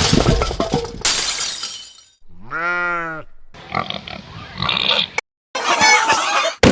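A loud crash sound effect fading away over the first two seconds, then farm-animal sound effects: one pitched call that rises and falls, followed by several shorter animal noises.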